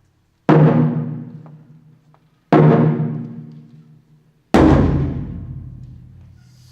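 Taiko drum struck three times, slow and evenly spaced about two seconds apart, each deep boom ringing out and fading before the next.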